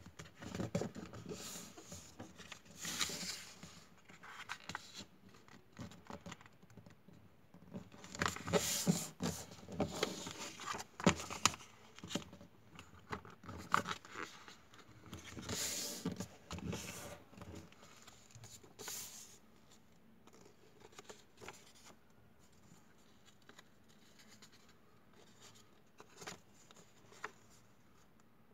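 Paper being handled and folded: irregular rustling, crinkling and creasing noises, busier for the first two-thirds and sparser near the end.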